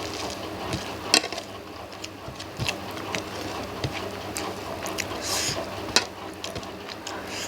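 Scattered clinks and taps of tableware against plates and bowls, two sharper clicks standing out about a second in and near six seconds, with a brief rustle between them, over the steady hum of an electric fan.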